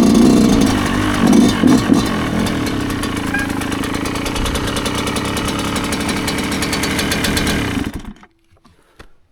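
2009 Yamaha YZ125's 125cc two-stroke single, blipped a few times and then idling steadily, until it is switched off about eight seconds in and the engine dies away quickly.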